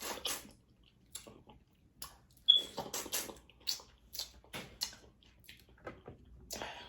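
Close-up eating of a saucy seafood boil: wet smacking, sucking and squishing with irregular small clicks. A short sharp high squeak about two and a half seconds in is the loudest moment.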